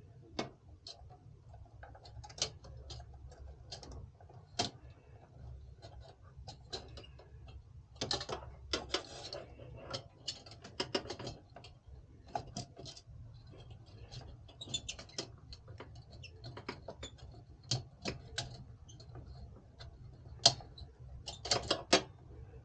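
Irregular clicks, taps and light rattles of small hardware being handled during CPU cooler installation, with busier clusters about a third of the way in and near the end, over a low steady hum.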